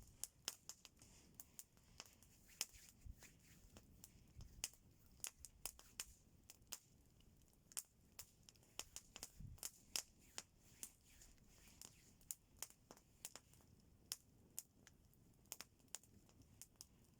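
Campfire wood crackling, with irregular sharp pops and snaps several times a second over a faint hiss.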